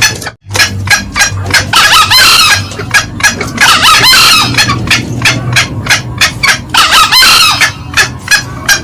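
Green junglefowl calling loudly: a rapid run of short repeated cackling notes, with three longer, hoarse crow-like calls breaking through about two seconds apart. It is the male and female call recording played as a lure for wild junglefowl.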